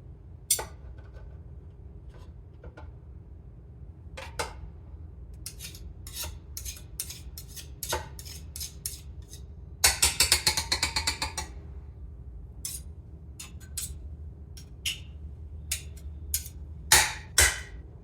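Scattered sharp clinks and knocks of hard objects, with a rapid rattling run about ten seconds in and two loud clinks near the end, over a steady low hum.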